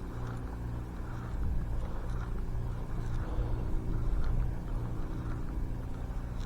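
A motor running steadily: a low hum with a regular throb about twice a second.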